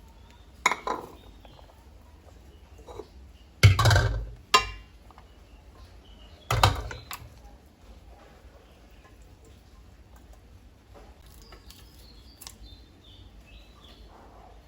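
Dishes and cutlery being handled: three loud clatters in the first seven seconds, then quiet with faint high chirps near the end.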